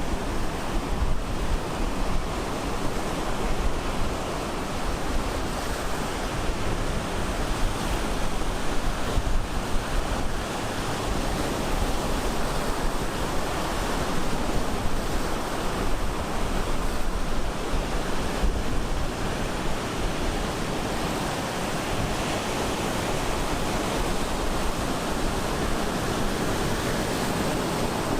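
Ocean surf breaking on the shore as a dense, steady wash with a deep low rumble, and some wind on the microphone.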